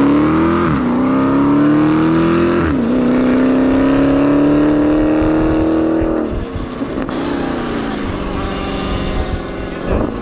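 Sur Ron electric dirt bike's motor whine climbing in pitch as it accelerates. The throttle eases off and the pitch climbs again twice. The whine drops away about six seconds in.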